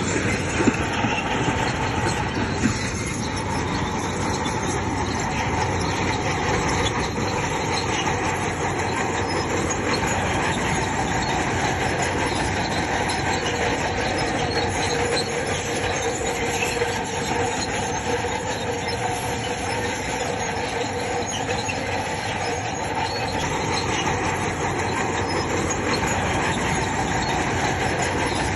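Crawler bulldozer working: diesel engine running under load with its steel tracks squealing and clanking, steady throughout.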